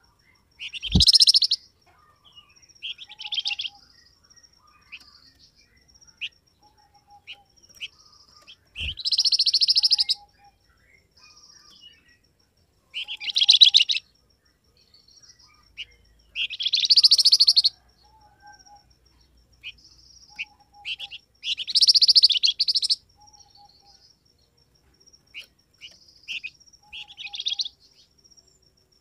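A flamboyan bird calling: loud, buzzy, high calls of about a second, repeated every few seconds, with short high chips and quieter notes in between. A low thump comes with the first call and again about nine seconds in.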